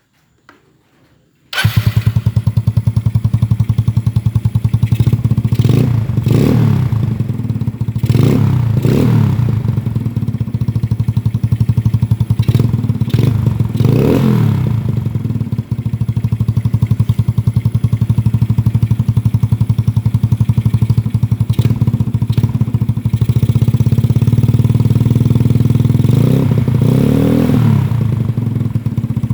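Yamaha Mio Smile scooter's single-cylinder four-stroke engine running through a Black Devil aftermarket exhaust with a 38 mm inlet. It comes in abruptly after a second and a half of near silence, idles with a rapid, steady exhaust pulse, and is blipped about half a dozen times in short revs that rise and fall.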